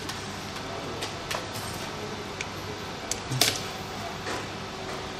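A few scattered light clicks and taps from small tools and parts being handled, over a steady hum.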